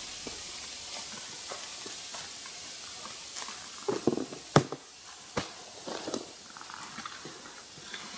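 A steady hiss for about three seconds, then a few sharp knocks and taps.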